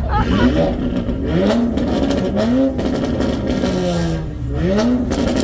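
Sports car engine revved hard in repeated blips, about one a second, each climbing in pitch and then dropping back, with sharp exhaust pops and cracks in between.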